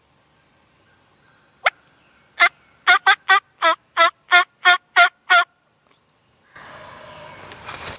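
Turkey calling: one sharp cluck, then a run of about eleven evenly paced yelps over about three seconds. Near the end comes a rustle of brush or leaves.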